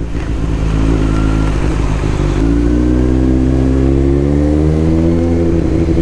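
Superbike engine pulling under acceleration, its pitch rising steadily from about two seconds in and then holding, over wind and road noise.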